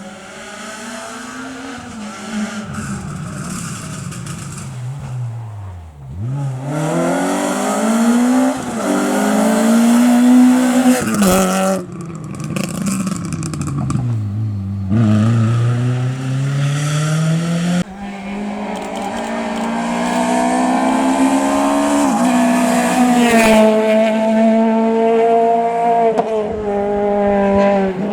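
Rally cars on a stage, one after another, engines revving hard and dropping as they brake and accelerate, with the pitch climbing in steps through gear changes.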